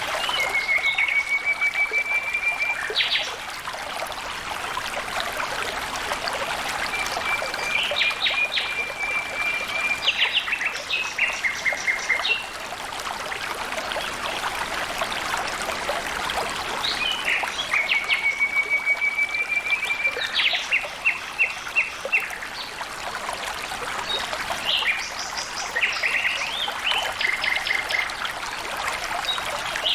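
Water trickling and flowing steadily in a small stream, with a bird calling over it in fast trills of about two seconds, in four bouts.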